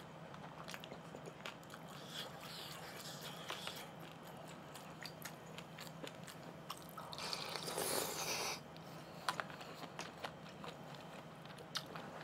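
Close-miked chewing of a mouthful of marinated beef short rib and rice, with soft wet mouth clicks. About seven seconds in, a louder rustling scrape lasting about a second and a half as a plastic rice container is handled with a spoon.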